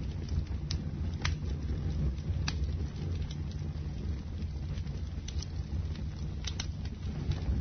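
Bonfire burning, with a steady low rumble of flame and a handful of sharp, scattered crackles and pops from the burning wood.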